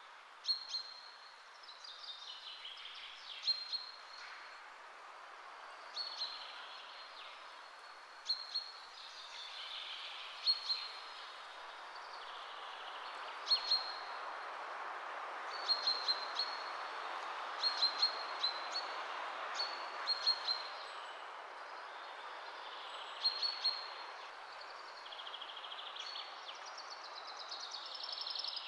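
Birds chirping in short calls every two to three seconds over a steady background hiss, like a nature ambience track.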